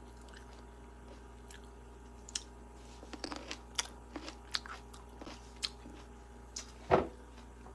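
A person chewing food close to the microphone, with scattered small crunches and clicks, and one loud thud about seven seconds in.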